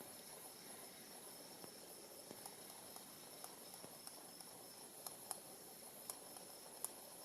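Faint, steady high whine from a hand-spun gyroscope, with scattered light clicks at irregular intervals.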